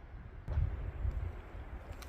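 Wind buffeting the microphone, a low rumble that swells about half a second in and then eases.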